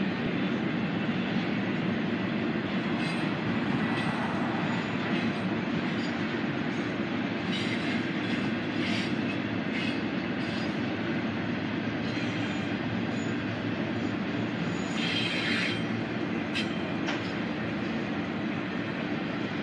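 Railroad cars rolling past on the track: a steady rumble, broken now and then by short high-pitched wheel noises, with a longer one about three quarters of the way through.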